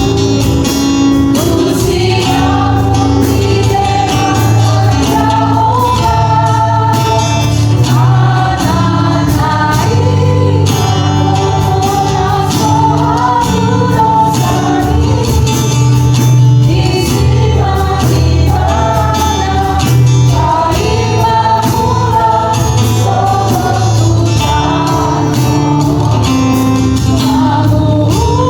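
A youth choir singing a Batak church hymn in several voice parts.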